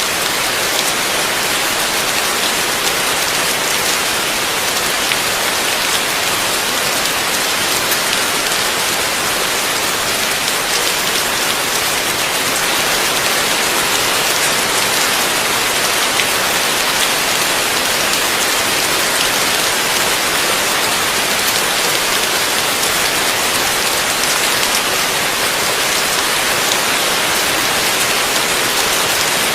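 Heavy rain falling steadily, a dense even hiss of drops with fine pattering and no thunder.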